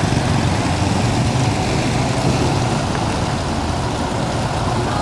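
Rain falling on stone and runoff pouring off a wet stone ledge, a steady rushing noise with a low rumble underneath.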